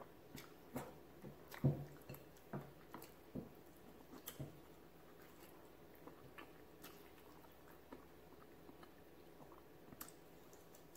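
Close-miked mouth sounds of a person chewing boiled beef picked off the bone by hand: short clicks and smacks. They are thickest and loudest in the first four or five seconds, then come more sparsely.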